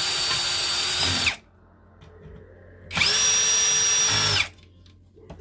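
Power drill-driver running in two steady high-pitched bursts of about one and a half seconds each, the first stopping about a second in and the second starting about three seconds in, each winding up and down at its ends, as it fastens parts of an alloy engine mount to an RC car chassis.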